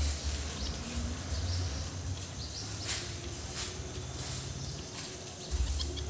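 Short, sharp chirps from small songbirds, a few scattered calls with gaps between them, over a steady low rumble on the microphone.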